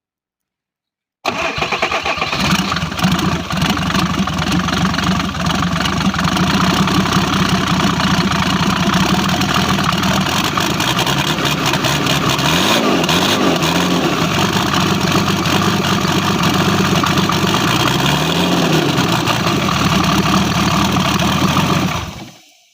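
Mercedes-Benz 3.0 diesel engine in a UAZ starting about a second in and running steadily, revved briefly twice, about halfway through and again near the end.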